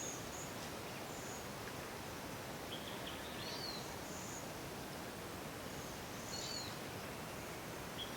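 Wild birds calling: short, thin, high whistles and quick down-slurred chirps that come back about every three seconds over a steady background hiss of outdoor ambience.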